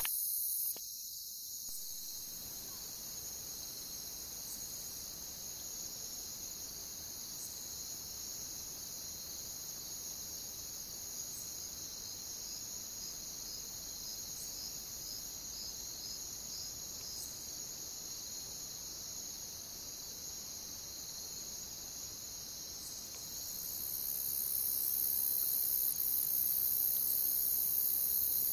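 A chorus of crickets chirping in a dense, steady trill. A higher-pitched layer of the chorus swells louder in the last few seconds.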